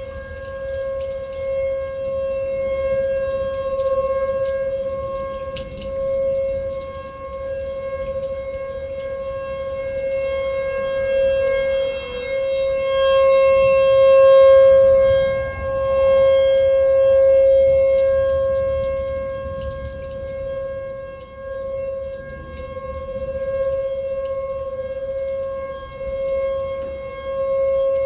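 Outdoor tornado warning siren sounding one steady tone, its loudness swelling and fading every few seconds as the rotating horn sweeps past, over low background noise.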